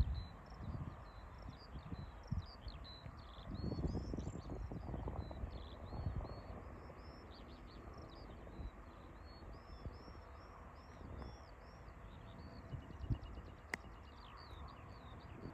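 Small songbirds singing and twittering continuously, a busy run of quick high phrases, over low gusts of wind on the microphone.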